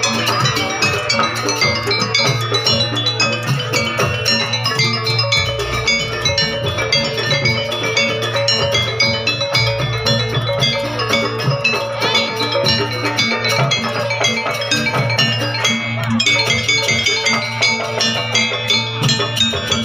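A live Javanese gamelan-style ensemble playing: rapid, dense metallophone notes over drums and a steady low tone.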